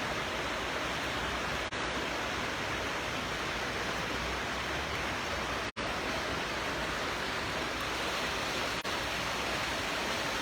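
Steady, even rush of rain and storm water running through an open drainage gutter.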